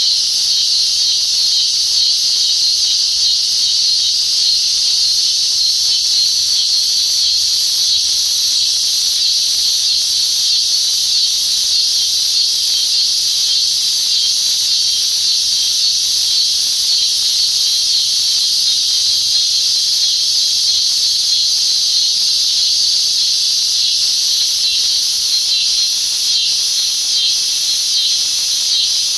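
Cicada song: a loud, steady, high-pitched buzz that holds without a break.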